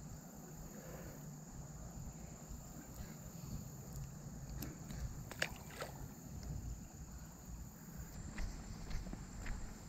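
Quiet creek-side ambience: a steady low rumble of moving water, with a couple of brief sharp sounds a little past the middle and a few more near the end.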